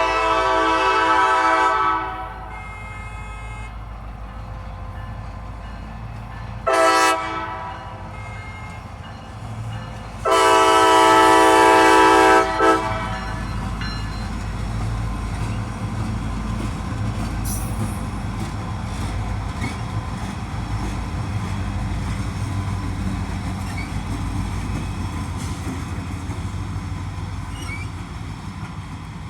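Multi-tone diesel locomotive horn sounding a long blast, a short one, then another long blast ending in a brief toot. Then the diesel engines of a three-locomotive freight train rumble steadily under heavy load as the train goes by.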